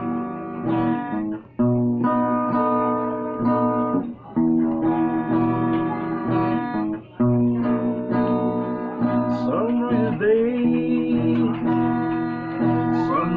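Guitar playing chords as the introduction to a song, with a short break between chords a few times.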